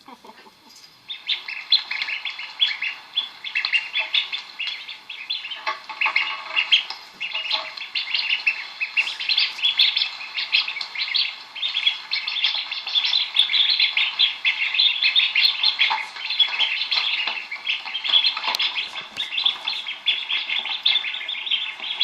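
Many small birds chirping at once: a dense, constant chatter of short, high chirps that starts about a second in.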